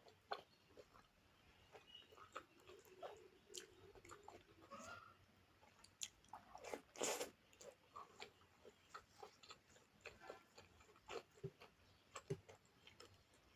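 Close-miked eating: a person chewing and biting food, heard as a scattered string of short clicks, with one louder, longer bite about seven seconds in.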